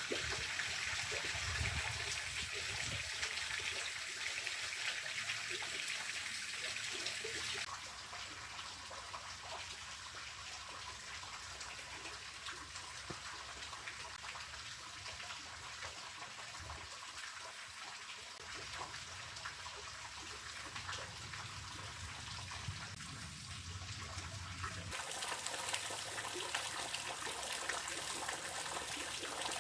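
Running water making a steady rushing, trickling noise. It drops abruptly quieter about eight seconds in and grows louder again near the end.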